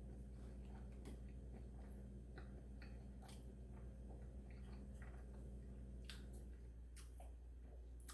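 Faint close-up chewing and small mouth clicks of someone eating, over a steady low hum that stops about six and a half seconds in.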